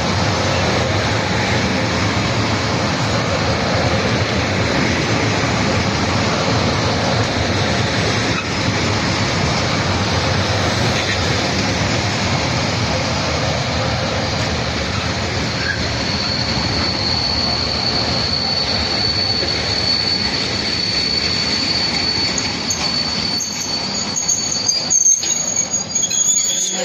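Freight train wagons rolling past on steel wheels, loud and steady, with a high, steady wheel squeal rising over the rolling noise from about halfway through. A higher squeal comes in near the end, just before the sound cuts off.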